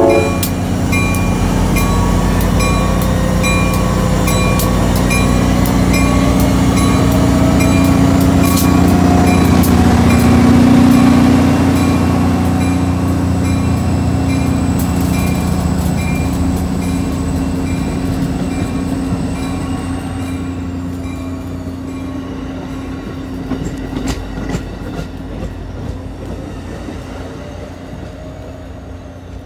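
GP40-3H diesel locomotive's engine running under power as it pulls a commuter train past, with steady rolling noise of the coaches' wheels on the rails. It is loudest about ten seconds in, then fades as the train draws away.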